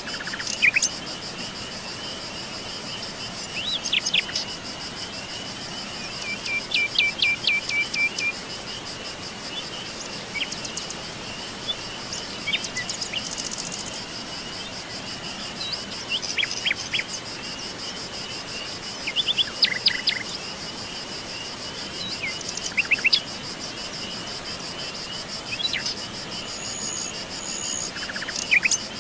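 A steady, high, rapidly pulsing insect trill, with birds calling on top of it: short chirps, whistles and a run of repeated notes every few seconds.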